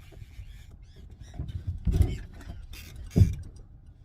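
Irregular knocks and rustling of someone moving about on a small boat, with two heavy thumps, about two seconds in and just after three seconds.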